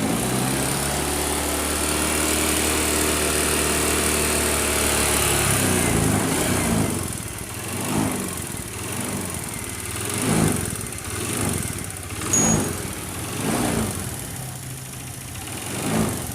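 Honda BeAT FI scooter's single-cylinder engine idling steadily, then revved in about five quick throttle blips from about six seconds in. It runs very noisy and rough, sounding like a bad piston or cam chain, but the cause is a loose spark plug.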